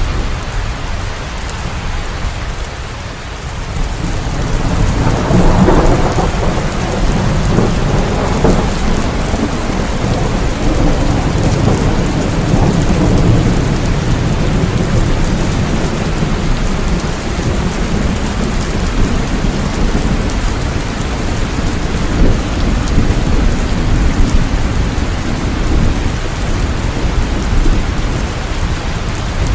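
Steady heavy rain with a deep rolling rumble of thunder that swells about five seconds in and keeps rumbling.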